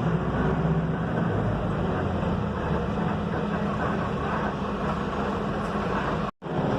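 Mercedes-Benz OF-1721 bus engine running steadily under road rumble while the bus drives. The sound cuts out completely for a split second near the end.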